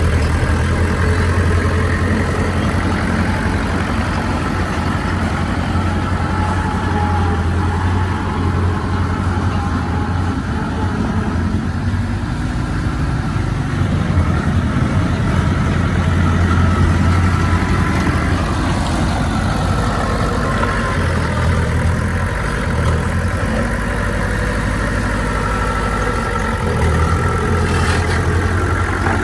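Heavy diesel engine of earthmoving machinery running steadily at work, with a strong low hum whose pitch and strength shift as the load changes, easing briefly about two-thirds of the way through.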